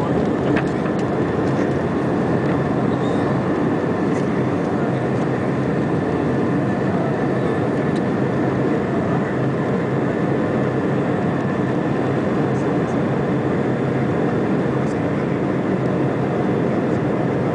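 Airbus A320 jet engines and airflow after takeoff: a steady, unchanging rumble with a faint thin high tone running through it.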